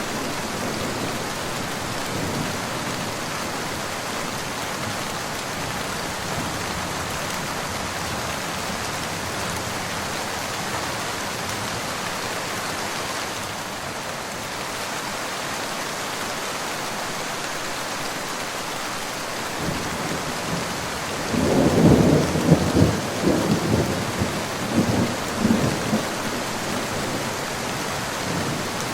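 Steady rain falling throughout, with thunder rolling in about three quarters of the way through: a low rumble that swells in several surges for about five seconds, then fades back under the rain.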